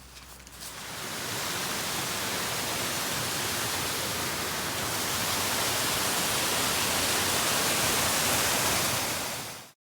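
Rushing water: a steady, even hiss of flowing water that builds over the first second and cuts off suddenly near the end.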